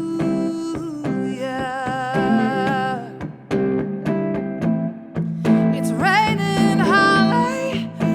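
A woman singing a slow ballad over acoustic guitar, holding long notes with a wide vibrato; a phrase sweeps up to a high note about six seconds in.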